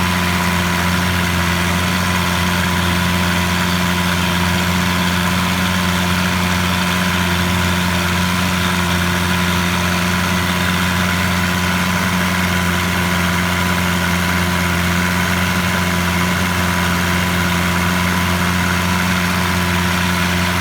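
Boat engine running at a steady speed, a loud, unchanging drone.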